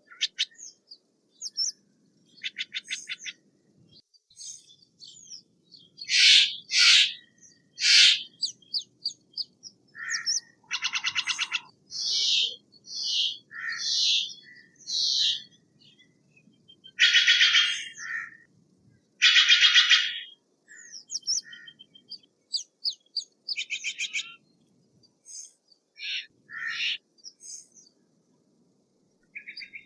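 Steller's jay calling: a varied run of harsh, raspy calls and rattling notes, loudest in three harsh calls about six to eight seconds in and two long harsh calls a little past halfway, with shorter rhythmic notes between them.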